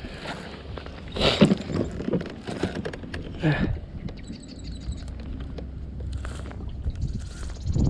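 Wind buffeting the action-camera microphone as a steady low rumble, with a few louder bursts of noise about a second and a half and three and a half seconds in.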